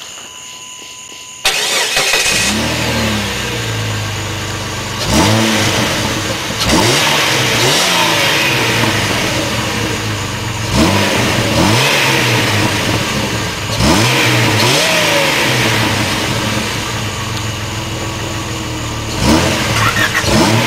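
Jeep Grand Cherokee 4.0-litre inline-six with a short ram intake and stock exhaust, idling and revved in a series of quick throttle blips, each one rising in pitch and falling back to idle. Before that, a faint hiss with a steady tone, cut off suddenly when the engine sound comes in about a second and a half in.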